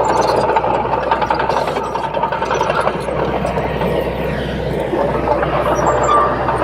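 Komatsu D21P bulldozer's diesel engine running steadily under work.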